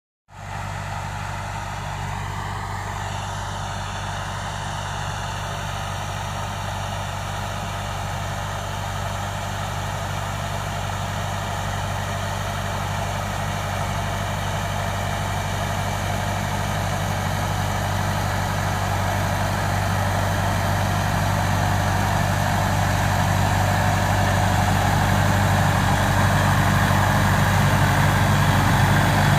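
Tractor with a crop sprayer, its engine running steadily under a broad hiss, gradually growing louder.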